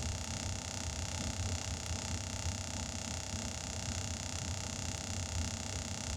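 Air compressor running steadily, a low hum with a hiss, while air is fed into a tire to seat its bead on the rim.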